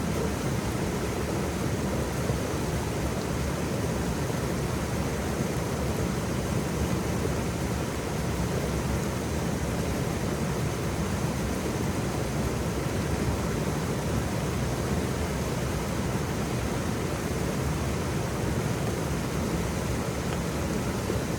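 Waterfall: a steady, unbroken rush of falling water, fullest in the low end.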